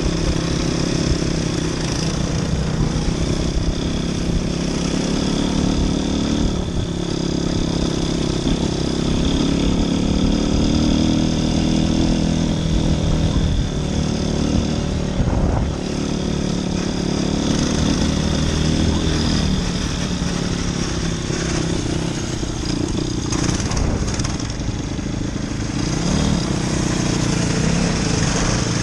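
Motoland RT200 motorcycle engine running while being ridden off-road, its note rising and falling with the throttle.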